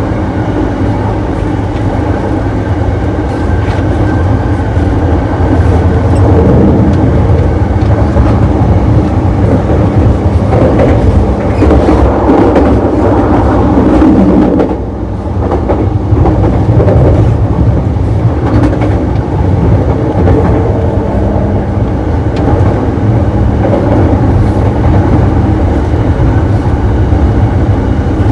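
Running noise of a JR East E233-series electric train heard from inside the gangway between two cars: a steady loud low rumble of wheels on rail with faint steady tones over it, briefly dropping in level about halfway through.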